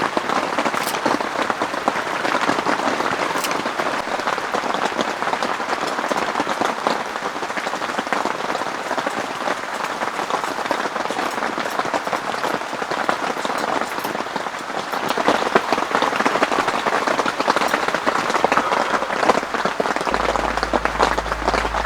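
Heavy rain falling steadily, a dense continuous patter of drops on the tent. A low steady hum comes in near the end.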